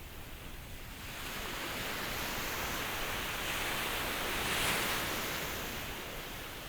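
Ocean waves: a wave swells up, breaks with a hiss about four and a half seconds in, and washes back down.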